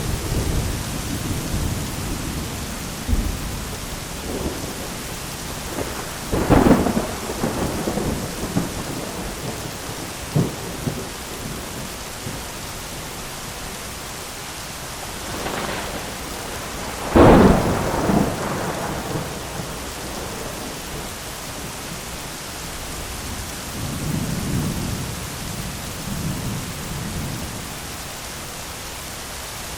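Heavy rain pattering steadily on an umbrella, with thunder: a loud crack about six and a half seconds in, a louder one around seventeen seconds, and a softer low rumble near the end.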